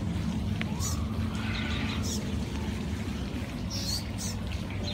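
Small birds chirping in short, high, down-slurred calls, several times, over a steady low background rumble.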